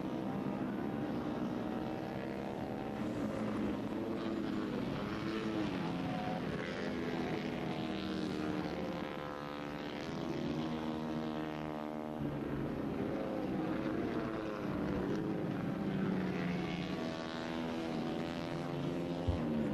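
Moto3 racing motorcycles' 250 cc single-cylinder four-stroke engines running hard on track, several heard at once, their pitch rising and falling as they rev and shift. One bike passes closer at about ten seconds in.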